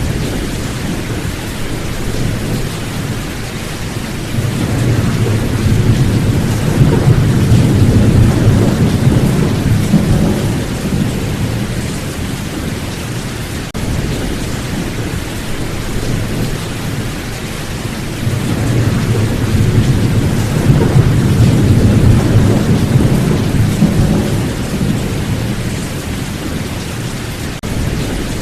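Steady rain with thunder rumbling, swelling twice: the first roll about four seconds in and the second about eighteen seconds in, each lasting several seconds before fading back into the rain.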